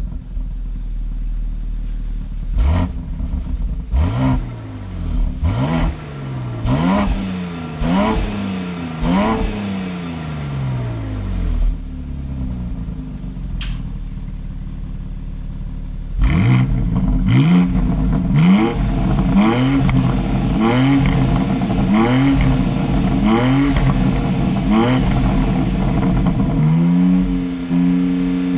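BMW S58 3.0-litre twin-turbo inline-six in a BMW X3 M Competition accelerating hard, its engine note climbing and dropping back again and again as the eight-speed automatic shifts up in quick succession. Two such full-throttle runs: one starting a few seconds in, another from a little past the middle.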